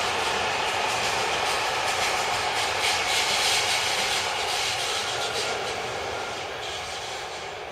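Electric commuter train running on the rails, wheels and running gear making a steady rushing noise that gradually fades over the last few seconds as it moves away.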